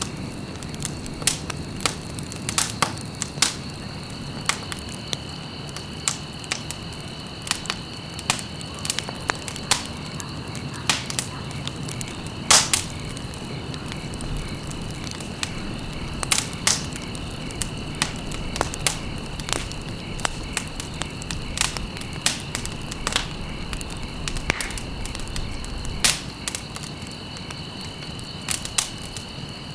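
Wood fire crackling in a fireplace: irregular sharp pops and snaps, several a second at times, over the soft steady rush of the flames, the loudest pop about halfway through. A faint steady high-pitched tone runs underneath.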